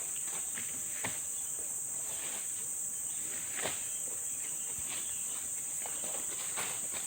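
A steady high-pitched chorus of forest insects, with a few scattered soft knocks or rustles, the clearest about a second in and again past the middle.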